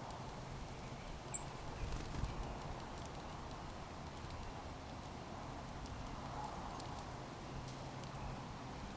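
Backyard feeder ambience: one brief high bird chirp about a second in, then scattered faint sharp clicks, over a steady low hum.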